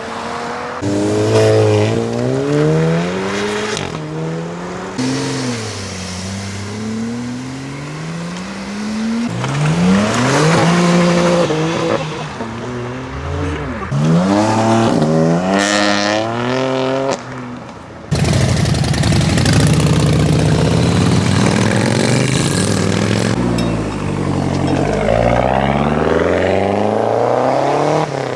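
Several high-performance cars revving and accelerating away one after another, engine pitch climbing and dropping repeatedly through gear changes.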